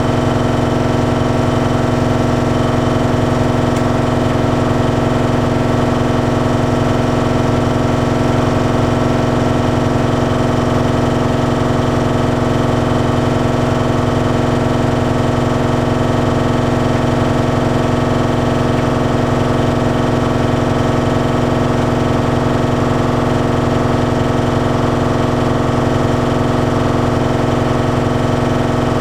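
Bosch Series 6 heat pump tumble dryer running mid-cycle on the Shirts programme: a steady hum with several fixed pitches over a low rumble from the drum motor, fan and heat pump compressor.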